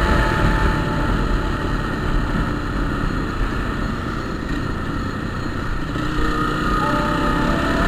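Vehicle engine running on the move, under heavy wind and road noise, its engine tone coming through more clearly near the end.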